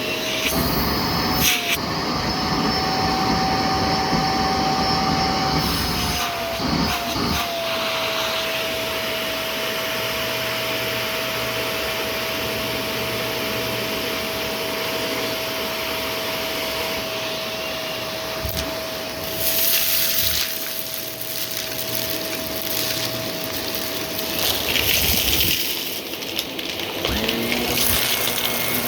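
Vacuum cleaner motor switched on and spinning up, rising in pitch, then running with a steady whine over a rush of air. Near the end the whine gives way to a lower-pitched motor hum, with a couple of short bursts of hiss before it.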